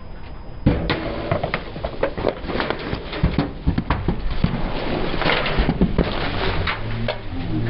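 A car tyre rolling over and crushing brittle, crunchy objects: a sudden dense run of cracks and snaps starts just under a second in and keeps going, over a low engine rumble.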